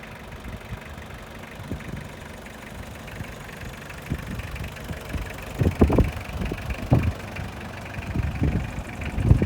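Mitsubishi Canter's 4M40 four-cylinder diesel engine idling steadily. From about halfway there are several loud, irregular low thumps over the engine sound.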